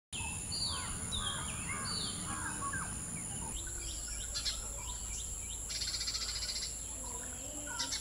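Outdoor birdsong: three falling whistled calls in the first three seconds, then scattered chirps and a short buzzing trill about six seconds in, over a steady high-pitched whine.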